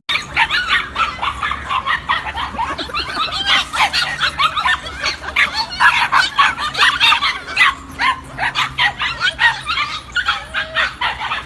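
Dog yipping and barking in rapid, high-pitched yaps, mixed with whimpers.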